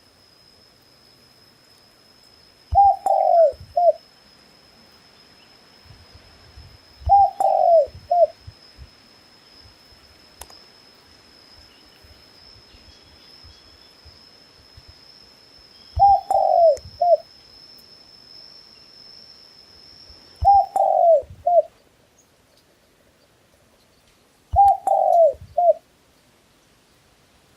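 A dove cooing: five short phrases of about three falling notes each, spaced several seconds apart. A thin, steady high-pitched tone sounds faintly behind them and stops about three-quarters of the way through.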